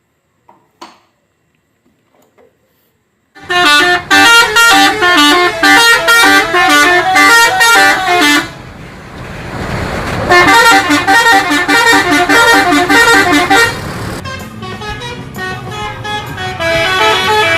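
Bus 'telolet' musical horn playing a quick stepping tune, loud, starting about three seconds in. About halfway through, the tune gives way to a couple of seconds of rushing noise. Then the tune plays again and fades to a softer one near the end.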